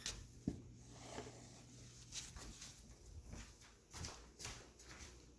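Chihuahua puppies moving about, with scattered faint clicks and rustles of small paws and claws.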